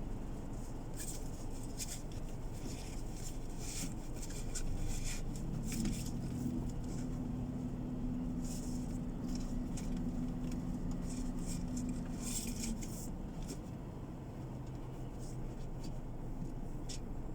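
Car cabin noise while driving: a steady low road and engine rumble, with a steady humming tone from about six to thirteen seconds in and scattered light clicks and rattles.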